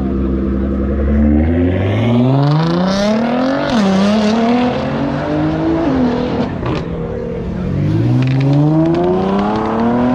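A car engine accelerating, its pitch climbing steadily and then dropping sharply twice, as at gear changes, before climbing again.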